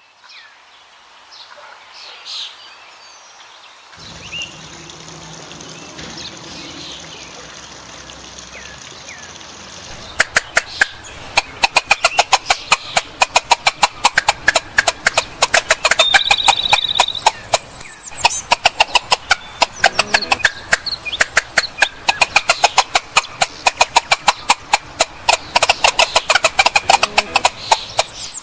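Fowl calling: a dense run of short, sharp calls, many a second, starting about ten seconds in, over quieter animal and outdoor sounds before it.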